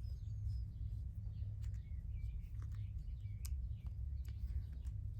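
Faint bird chirps in the background over a steady low hum, with a few light clicks.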